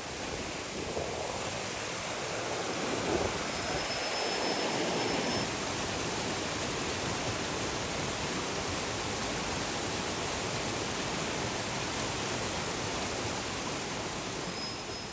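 Steady rush of flowing river water, a dense even hiss that swells a little in its lower notes during the first few seconds.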